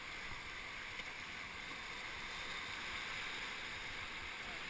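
Steady sound of river water flowing around a raft, an even noise with no distinct splashes.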